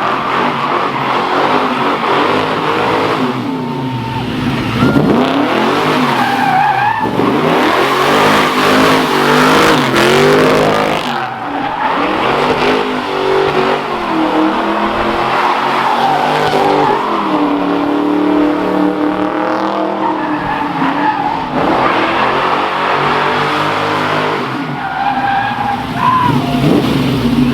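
A car doing a burnout: its engine revved hard, the pitch sweeping up and down again and again, while the drive tyres spin and squeal on the pavement.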